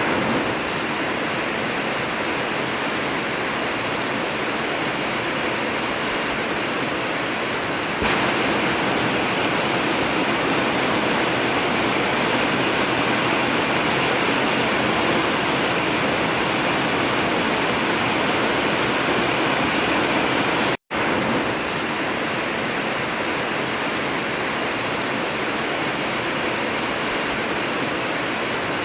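Heavy rain pouring steadily on an old tin (metal) roof, a dense even hiss. It steps up slightly about eight seconds in and cuts out for an instant about twenty-one seconds in.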